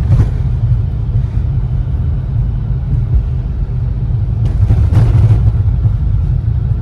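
Steady, loud low rumble, with a brief louder, hissier stretch about five seconds in.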